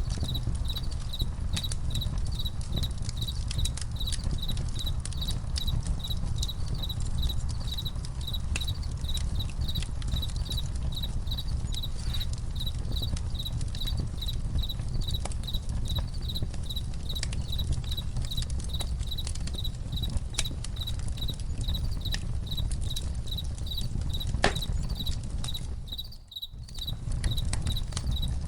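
Campfire crackling with scattered sharp pops over a steady low rumble, while crickets chirp in a fast, even pulse on one high tone. The whole bed dips briefly near the end.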